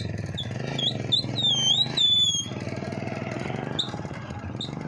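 Small single-cylinder motorcycle engine running at low revs as the bike is walked up a plank onto a wooden boat, briefly louder about two seconds in. High chirping whistles come and go over it.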